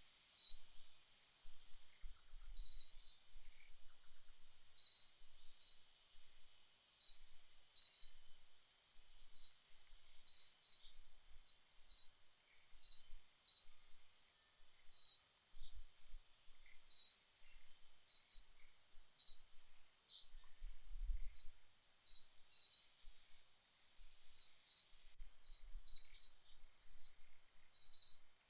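A small bird chirping over and over: short, high chirps about once or twice a second, irregularly spaced, over a faint steady high hiss.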